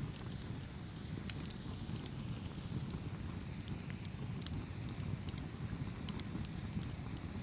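Campfire burning with a steady low rumble and scattered sharp crackles and pops from the wood, several a second.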